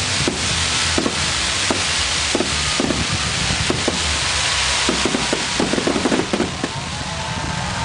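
Fireworks bursting overhead with a steady crackling hiss and scattered sharp bangs, including a rapid cluster of pops about five to six and a half seconds in.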